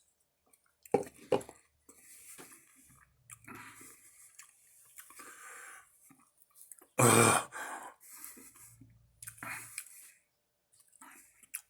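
Wet mouth sounds of a person chewing a tarantula and struggling to swallow it: scattered clicks and smacking, with a louder burst about seven seconds in.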